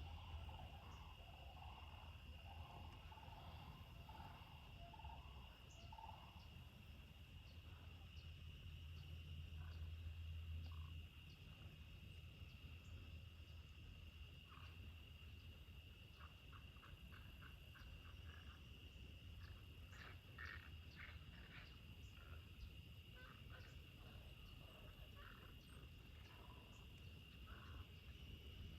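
Faint evening insect chorus: a steady high-pitched trill throughout, with scattered short chirping calls, most of them in the second half. A low hum underneath stops abruptly about eleven seconds in.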